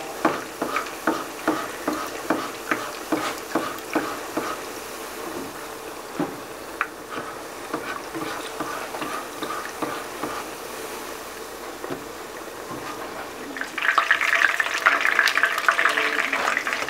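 Masa quesadillas frying in peanut oil in a pan: a steady sizzle, with light regular clicks of a plastic spatula against the pan for the first few seconds. About fourteen seconds in, the sizzle turns much louder and more crackly.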